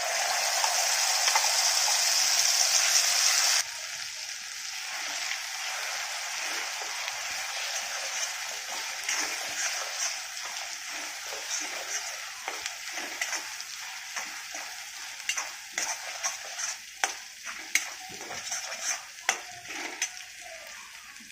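Wet ground green masala sizzling as it hits hot oil in an iron kadhai: loud for about the first three and a half seconds, then suddenly quieter. The sizzle continues while a steel spatula stirs the paste, with repeated short scrapes and clicks against the pan.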